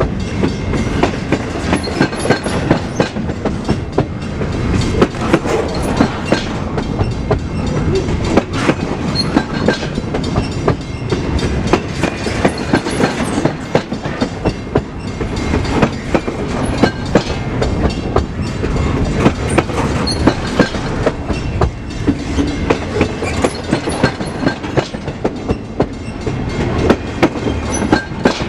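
Freight train cars rolling past, their wheels clacking over rail joints in a long, steady run of sharp clicks over a continuous rumble.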